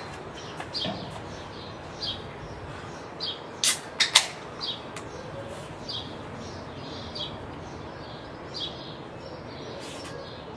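A bird chirping over and over, short high calls about once or twice a second, over a steady background hiss. Three sharp clicks come close together a little under four seconds in.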